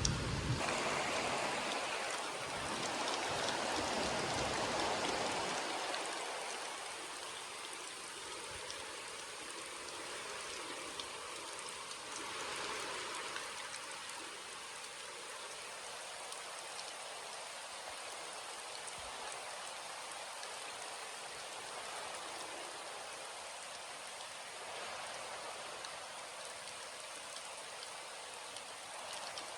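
Steady rainfall, heavier for the first five or six seconds and then settling to an even level.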